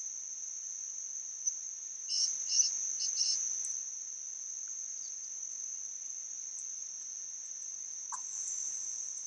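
Crickets trilling in one steady, unbroken high-pitched drone, with a few short chirps about two seconds in.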